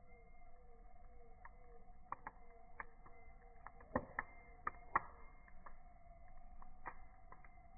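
Campfire crackling: scattered sharp pops and snaps of burning wood, the loudest about four and five seconds in, over a faint steady hum.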